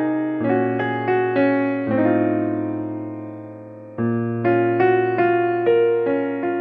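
Background piano music: gentle melody notes over chords, each struck and fading away, with one chord left to ring and die down for a couple of seconds partway through before the playing picks up again.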